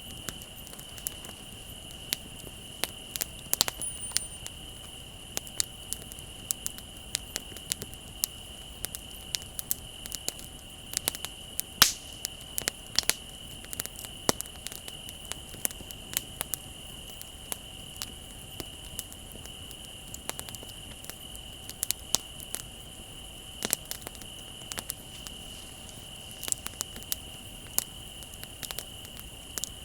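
Wood fire crackling with irregular sharp pops, one louder pop about twelve seconds in, over the steady high trill of crickets.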